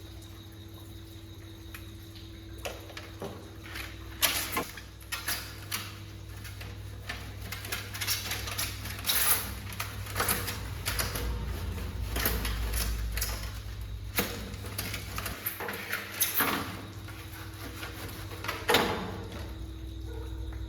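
Irregular clicks, knocks and short scrapes of hand work on an air conditioner's parts, over a low steady hum.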